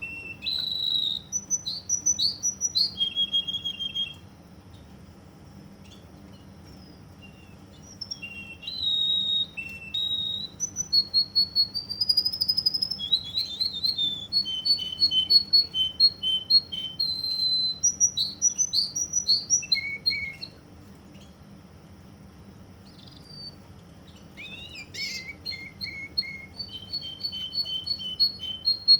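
Russian singing canary singing in phrases of rapid repeated high notes and trills. The song breaks off for a few seconds twice, a few seconds in and again about two-thirds of the way through.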